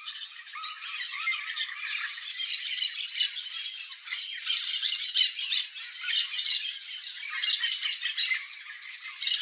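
Yellow-faced parrot giving a rapid, continuous string of harsh squawks and chattering calls, with a couple of thin whistled glides about seven seconds in.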